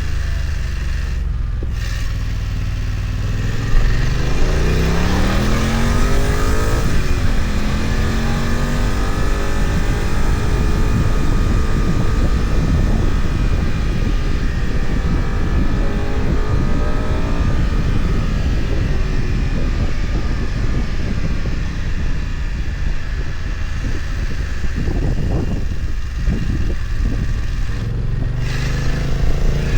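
BMW F900XR motorcycle's parallel-twin engine heard on board over wind noise. It slows off the throttle at first, then accelerates with rising revs from about four seconds in, pulls steadily, and picks up again near the end.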